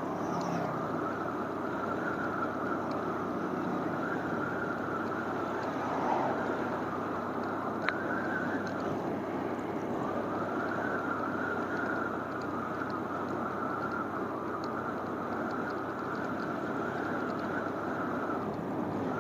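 Motorcycle on the move: a steady rush of wind and road noise with the bike's engine running, and one sharp tick about eight seconds in.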